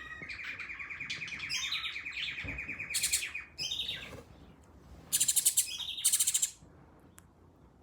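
Birds calling: a rapid, even trill for about three seconds, then short, loud, harsh chattering calls, the loudest two about five and six seconds in.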